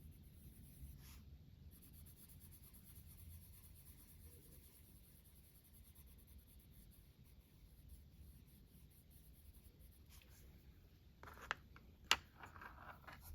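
Faint scratching of a colored pencil on paper, laid on with light pressure. Two sharp knocks come near the end.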